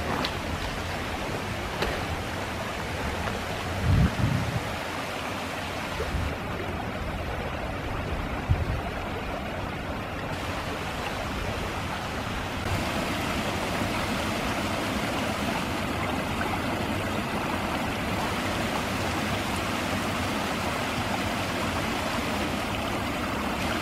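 Rushing water from a small waterfall of rain runoff after heavy rain: a steady splashing roar that grows a little louder about halfway through. A couple of low thumps come in the first half.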